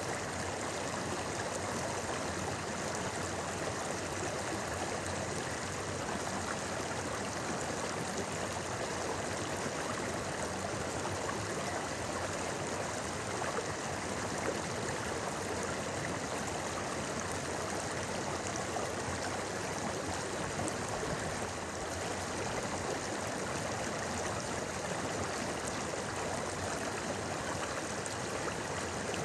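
River water flowing and babbling steadily, with an even, unbroken rush.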